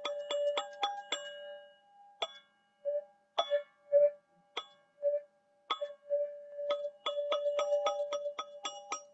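Teal ZenTube struck in a quick run of ringing notes, about four a second, alternating between a few pitches. About a second in, the run thins to a handful of scattered strikes, and near seven seconds the quick pattern starts again.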